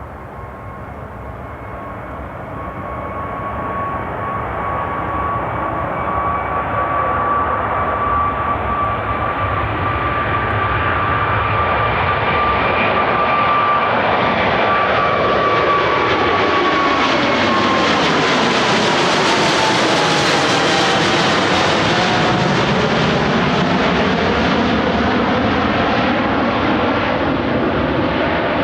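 Jet airliner passing close by, its engines growing louder over the first few seconds. A steady high engine whine holds, then drops in pitch as the aircraft goes past, about two-thirds of the way through.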